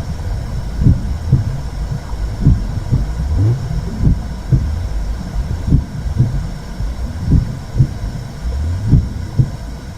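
Womb sound for soothing a baby: a steady low whooshing rumble with a slow heartbeat, double beats repeating about every one and a half seconds.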